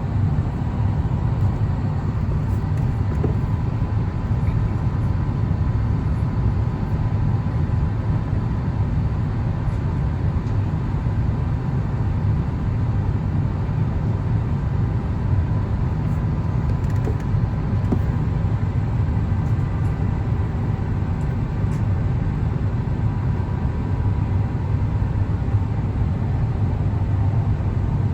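Steady in-flight cabin noise of an Airbus A350-1000: a constant low rumble of airflow and its Rolls-Royce Trent XWB engines, with a faint steady whine on top.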